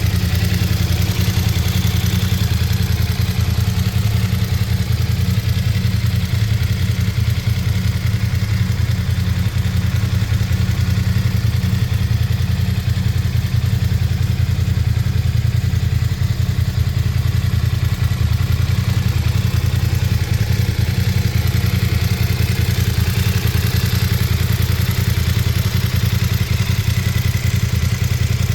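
BMW F900 XR's 895 cc parallel-twin engine idling steadily through its stock exhaust, with an even, unchanging beat.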